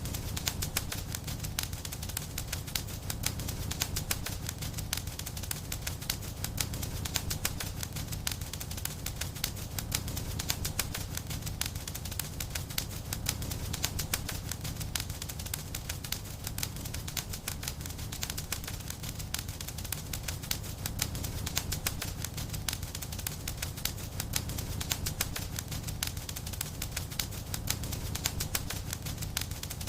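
Wood fire in a fireplace crackling and popping: many small sharp crackles every second, irregular, over a steady low rumble of the flames.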